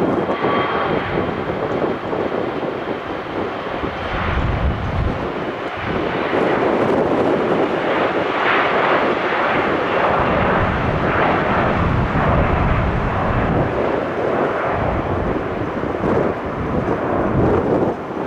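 Embraer E-Jet regional jet taking off, its twin turbofan engines at takeoff power giving a loud, steady jet roar.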